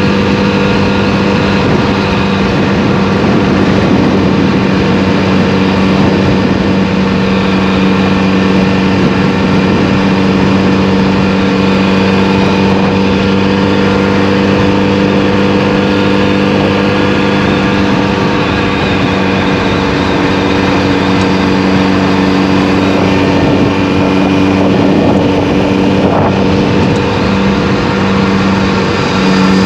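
Motorcycle engine running at a steady speed while riding, heard from on the bike, with wind and road noise.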